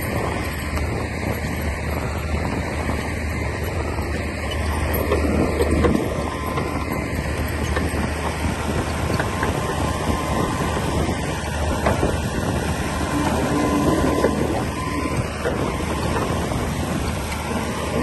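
Komatsu D60P bulldozer's diesel engine running under steady load, with a dense, continuous clatter over its low hum.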